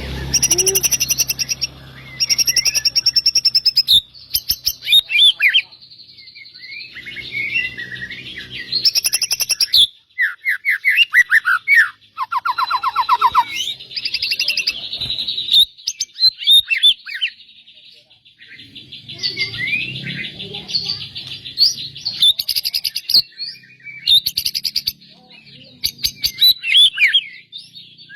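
Songbird singing a loud, varied song of clear whistles, chirps and fast trills, delivered in phrases broken by short pauses, including a rapid lower-pitched rattling trill about halfway through.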